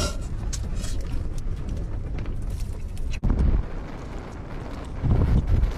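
Strong gale wind rumbling and buffeting the microphone in low gusts, with an abrupt cut about three seconds in.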